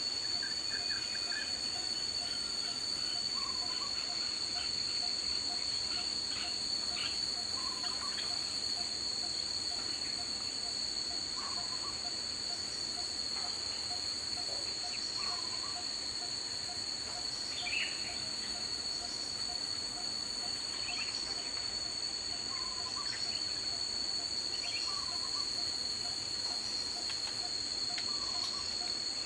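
Daytime forest ambience led by a steady, high-pitched insect drone. Over it, a short, low two-note call recurs every few seconds, with scattered higher chirps and a soft, even ticking in the background.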